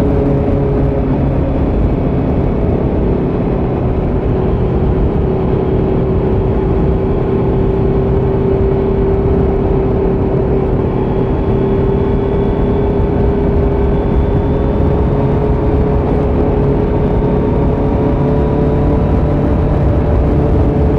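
2018 Kawasaki Z900's inline-four engine running through a Leo Vince slip-on muffler with the dB killer removed, holding a steady cruising pitch that dips slightly midway and then rises gently again.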